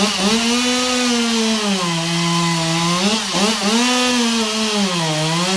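Stihl 200T two-stroke chainsaw running at high revs and cutting wood with its freshly sharpened chain. The engine note sags and picks up again several times as the chain bites into the wood under load.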